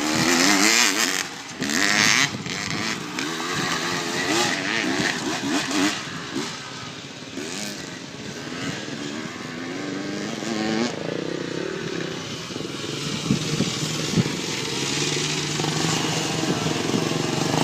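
Motocross bike engines revving up and easing off again and again, the pitch rising and falling as the riders work the throttle, loudest in the first couple of seconds.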